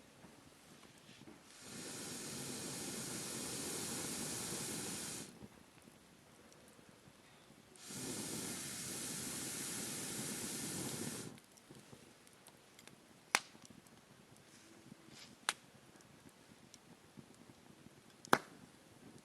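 Wood campfire being blown on: two long, steady rushes of air into the fire, each about three and a half seconds. Then three sharp pops of burning wood, spaced a couple of seconds apart.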